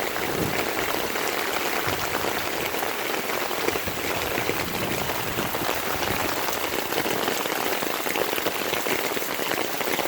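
Rain falling steadily onto standing floodwater and surrounding surfaces, a continuous dense patter.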